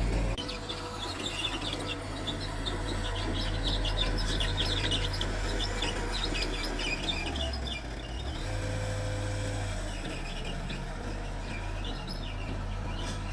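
Small Mitsubishi crawler bulldozer's diesel engine running with a steady low drone that shifts in pitch about halfway, under many short high-pitched squeaks and scrapes, dense for the first several seconds and again near the end, typical of steel tracks and blade working soil.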